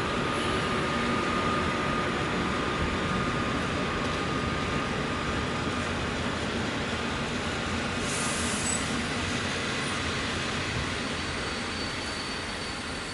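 A train rolling through a railway station: steady rolling noise of the wheels on the rails, fading slowly toward the end.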